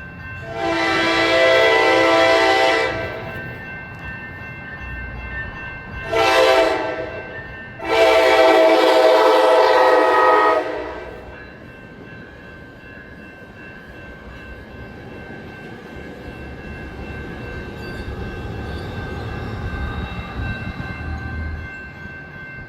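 A train's multi-tone air horn sounds three blasts: a long one, a short one, then another long one. Afterwards the train keeps running with a steady rumble that slowly grows louder.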